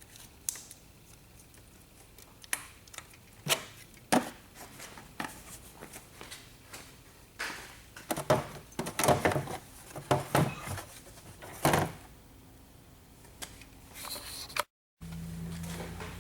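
Irregular clicks and knocks of something being handled, some sharp and loud, with a busier patch of clatter in the middle. Near the end, after a brief cut, a steady low hum begins.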